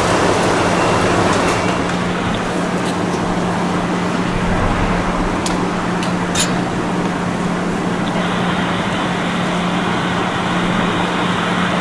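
Steady traffic noise with a constant low hum.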